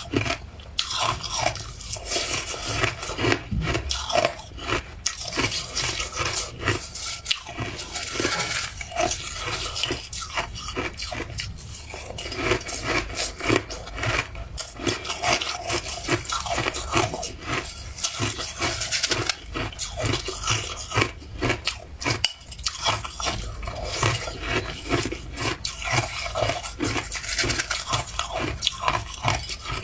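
Ice being bitten and chewed: a dense, irregular run of crisp crunches and cracks, one after another.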